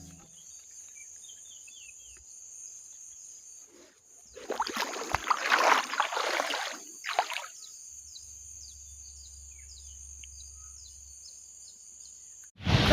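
Outdoor night ambience: a steady high insect trill with short falling chirps repeating over it. A louder, irregular noisy stretch comes about four to seven seconds in, and a low hum joins in the second half.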